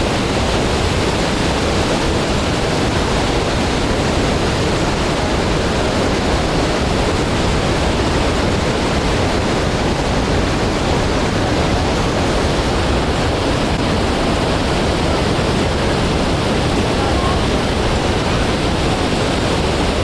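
Waterfall: a steady, loud rush of falling water without a break.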